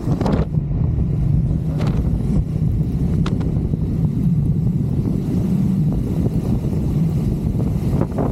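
Triumph Scrambler 400X's single-cylinder engine running steadily while the motorcycle is ridden, a low drone under a rumbling haze, with a few brief clicks in the first few seconds.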